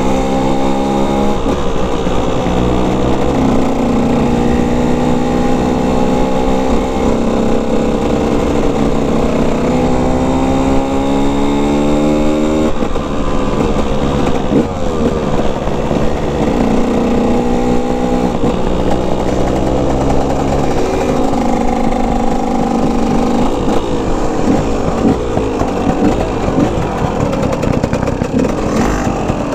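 Dirt bike engine being ridden hard, its pitch repeatedly climbing and then dropping back as it shifts up through the gears.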